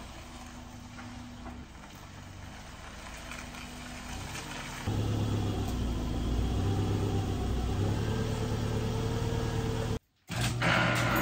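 1998 Subaru Forester's flat-four engine running at low speed as the car pulls in, then idling steadily close by, louder from about five seconds in. Both catalytic converters are still fitted. Near the end the sound drops out for a moment and a louder, different sound starts.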